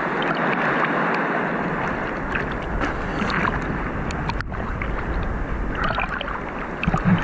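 Rough, stormy sea surf rushing and sloshing close to the microphone, a steady churning wash of water with small splashes and clicks.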